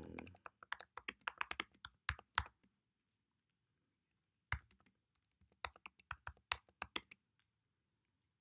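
Typing on a computer keyboard: a quick run of keystrokes, a pause with a single key press, then a second short run of keystrokes.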